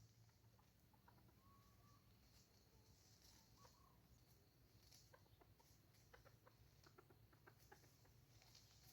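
Faint, short clucks of a junglefowl over near silence, with scattered faint clicks in the second half.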